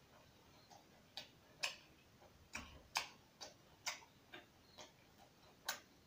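A person chewing food, making irregular sharp, wet smacking clicks with the mouth, about a dozen over the few seconds.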